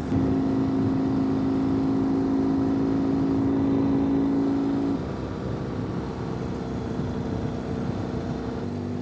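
Ural sidecar motorcycle's air-cooled flat-twin engine pulling steadily under load on a climb. About five seconds in, the engine note changes and gets quieter.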